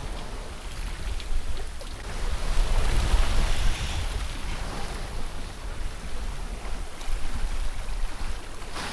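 Wind and water rushing past a sailboat's hull under sail in a swell, with a low rumble of wind buffeting the microphone. The rush swells loudest about two to four seconds in.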